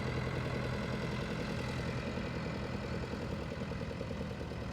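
Tractor engine idling steadily, close by.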